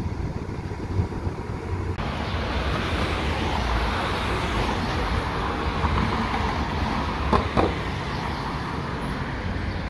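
Steady rumble and noise of a passing vehicle, growing louder about two seconds in, with two short squeaks about seven and a half seconds in.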